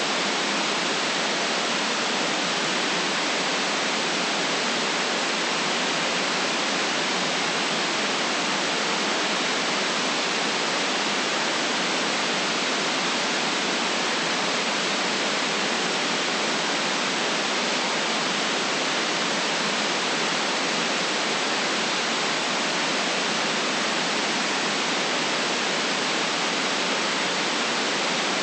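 Steady white noise: an even, unchanging hiss with no bass and no events, holding one level throughout.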